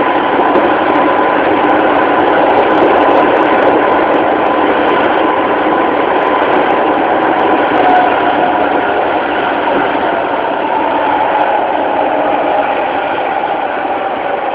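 Running noise of a JR 205-series electric train's motor car (MT61 traction motors, field-added excitation control), heard from inside the car: a steady rumble of wheels on rail with a thin steady tone, and faint tones that shift in pitch in the second half as the sound eases slightly.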